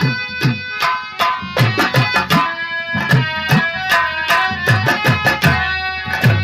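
Instrumental nautanki nagma: fast tabla-style hand-drum strokes, many with bass notes that bend in pitch, played under a held-note melody.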